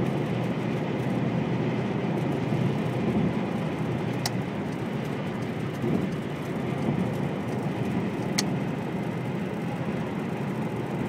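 Steady road and engine noise of a car driving at highway speed, heard from inside the cabin, with two short clicks about four seconds apart.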